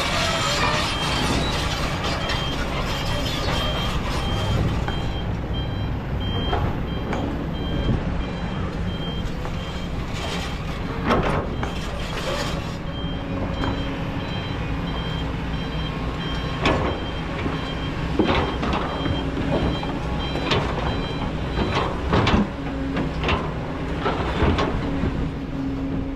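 Diesel engine of a Kobelco excavator running steadily under load, with a steady series of high back-up alarm beeps and a few sharp metallic knocks as the machine works sand.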